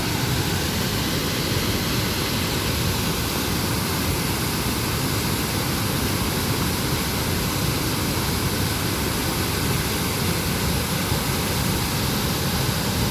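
Waterfall, its water falling with a steady, even rushing noise.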